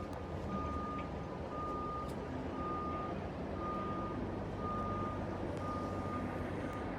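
Backup alarm beeping steadily, about once a second, over a low engine rumble.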